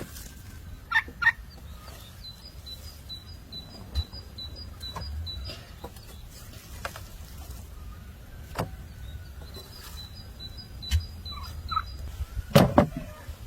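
Bird calls: short, rapid high chirps repeated in two runs, with scattered knocks and a low rumble underneath.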